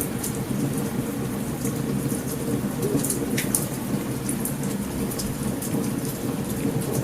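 Steady heavy rain with a continuous low rumble of thunder, and scattered sharp crackles and pops from a burning campfire.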